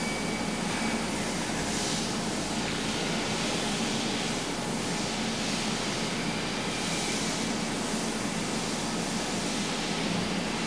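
Steady background room noise: an even hiss with a low hum and no distinct clicks or handling sounds.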